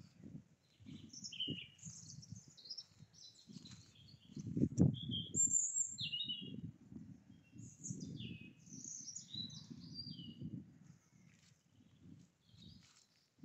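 Small songbirds chirping and singing, many short, quick calls overlapping. Under them run low, muffled thumps and rustling, loudest about five seconds in, with one sharp click at that point.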